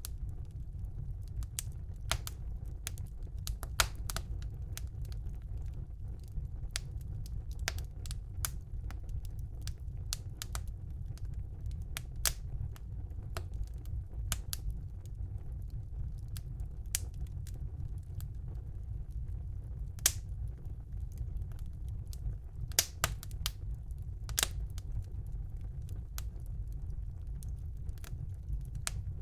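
Wood fire burning in a fireplace: a steady low rumble of the flames with irregular sharp crackles and pops of burning logs, a few louder snaps scattered through.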